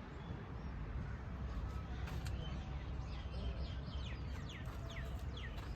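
A bird calling: a run of quick falling notes in the second half, over a steady low outdoor rumble.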